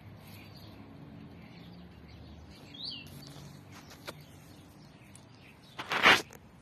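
Quiet garden background with a single short, falling bird chirp about three seconds in, then a loud, brief burst of noise near the end.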